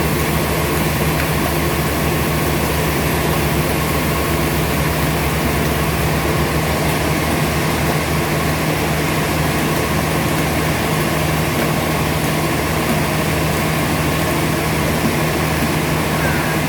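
Sawmill machinery running with a loud, steady motor hum that holds constant throughout.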